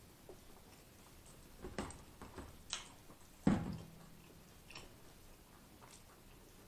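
Close-miked chewing of a honey BBQ chicken wing: a run of wet smacks and clicks, then a short closed-mouth "mm" hum about three and a half seconds in, the loudest sound.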